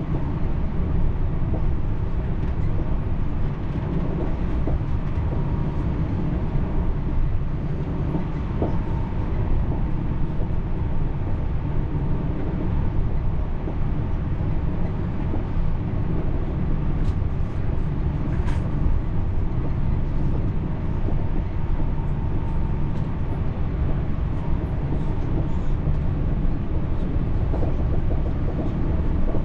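Steady rumble of a TER regional train running along the track, with a faint steady whine above the rumble.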